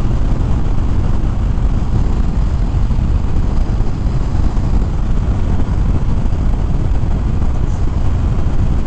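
2013 Harley-Davidson Fat Bob's V-twin running steadily at road speed, mixed with wind rush on the helmet microphone.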